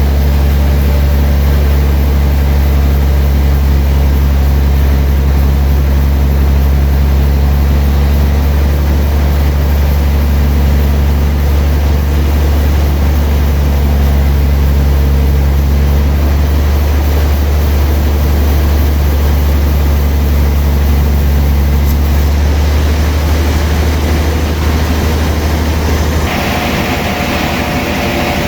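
Sawmill engine running with a steady, heavy low drone. Near the end the drone drops and a higher whine and hiss come in.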